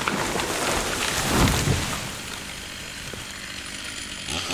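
A felled tree coming down: crackling and snapping of branches builds to a loud crash about a second and a half in, then fades out.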